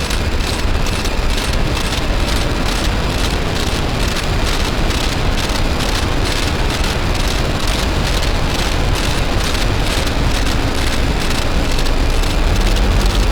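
Harsh noise music: a dense, loud wall of distorted electronic noise from DIY noise synthesizers run through distortion pedals, with a heavy low rumble underneath and a fast flutter in the high hiss.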